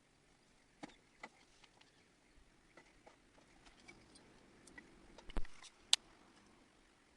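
Wood fire crackling faintly with sparse small pops. A louder knock comes a little over five seconds in, followed by a sharp snap.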